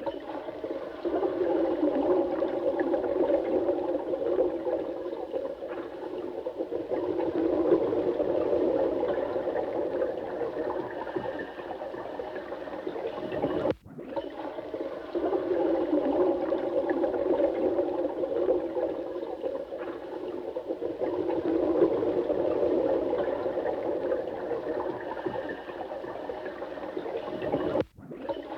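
Running water, a steady rushing and gurgling sound. It cuts out for a split second about halfway through and again near the end.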